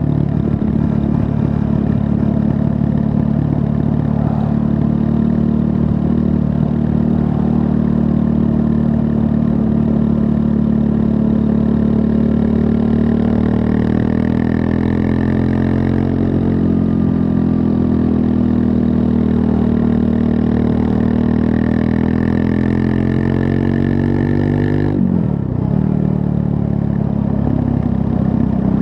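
A Triumph Scrambler 400 X's 398 cc liquid-cooled single-cylinder engine running under way, its pitch easing slowly up and down. Near the end the revs drop sharply and pick straight back up.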